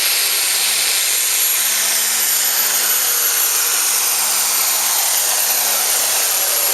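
Turbocharged diesel super farm pulling tractor engine running hard at high revs, a loud steady noise with a high whine over it.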